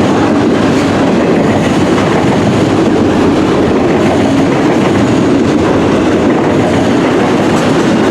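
Freight cars of a CN local mixed freight train rolling past, a loud, steady noise of wheels on rail.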